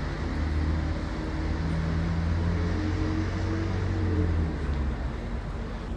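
A large vehicle's engine running close by over steady traffic noise, its low note rising slightly and then easing off about four to five seconds in.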